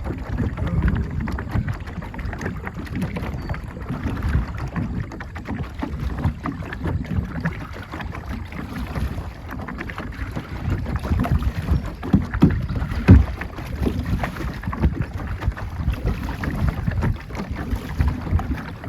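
A boat under way on a river, with wind buffeting the microphone in uneven gusts and a few knocks standing out about twelve and thirteen seconds in.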